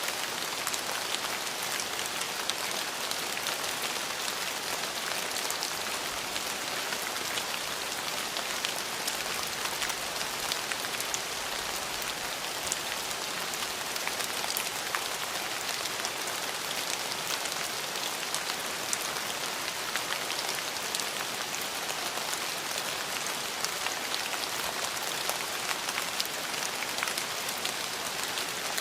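Steady rain falling and pattering on surfaces, an even hiss dotted with the small ticks of individual drops.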